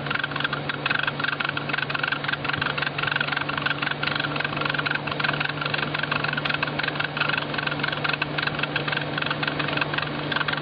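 Car engine idling with its serpentine accessory belt running over the tensioner and idler pulleys: a steady hum with a higher whine above it and a fine, fast ticking, all unchanging.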